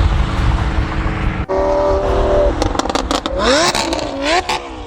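Car engine accelerating hard. After a low, steady rumble, the revs rise in pitch twice with a drop between them (a gear change), with several sharp cracks.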